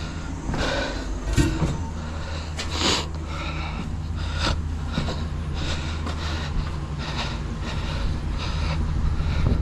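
A truck engine running steadily, with scattered knocks and rattles.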